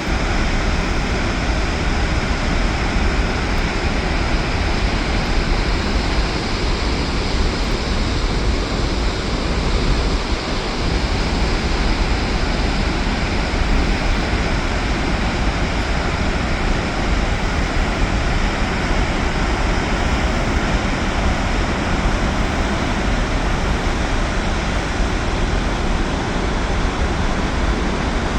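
Loud, steady rush of water pouring from Kinzua Dam.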